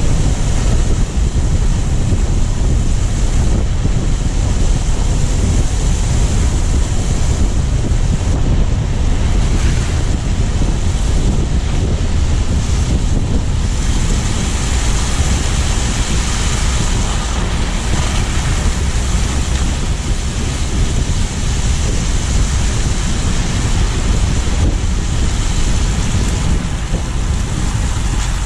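Steady road and wind noise from a car driving on snowy city streets: tyres hissing on the wet road, with wind rumbling on the GoPro's microphone.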